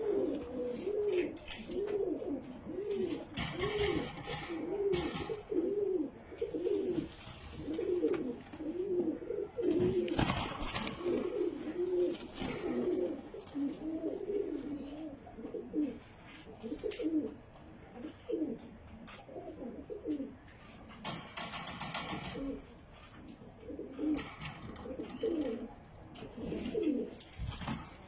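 Jacobin pigeons cooing: a steady run of low, rising-and-falling coos, about two a second, with a few brief rustling bursts.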